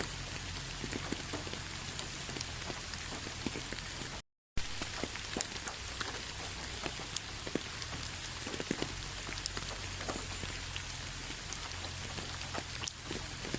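Steady rain falling, with many separate drops ticking on a hard surface. The sound cuts to dead silence for a split second about four seconds in.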